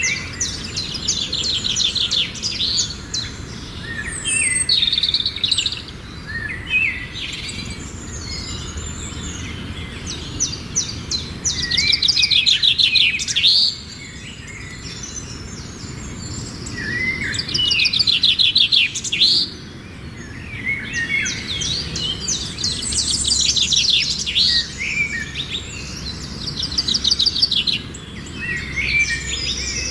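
Songbirds singing: fast, repeated trilled and chirping phrases that come every few seconds, with the loudest trills about twelve and eighteen seconds in, over a steady low background rumble.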